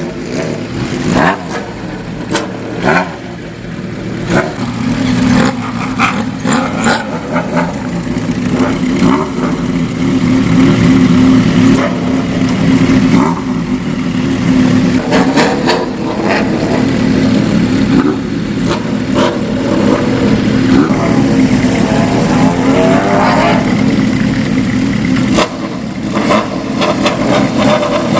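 Inline-four motorcycle engines revving and running, with sharp throttle blips in the first few seconds, then a louder, steadier engine note.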